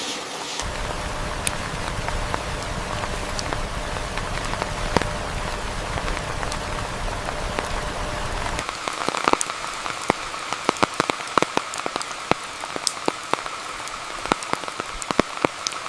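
Steady rain with a low rumble underneath. About nine seconds in, the rumble drops away and large drops tap sharply and unevenly onto a surface over a steady hiss of rain.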